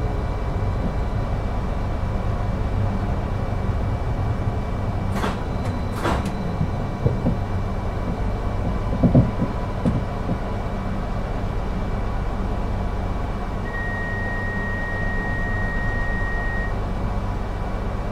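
Cabin sound of a Class 333 electric multiple unit: a steady low rumble with a faint constant whine. A couple of sharp clicks come about five and six seconds in and a few knocks near nine seconds, and a steady single-pitched tone sounds for about three seconds near the end.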